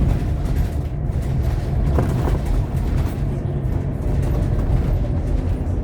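Cabin sound of a Scania K230UB OmniLink bus on the move: a steady low diesel engine drone and road rumble, with a couple of short rattles about two seconds in.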